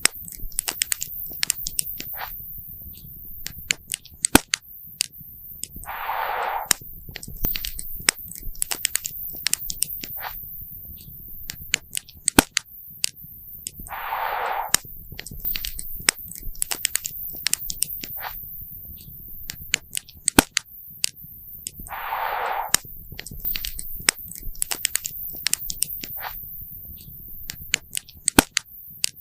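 Campfire crackling, with irregular sharp pops and snaps over a low rumble of burning wood. A short burst of hiss comes about every eight seconds, three times.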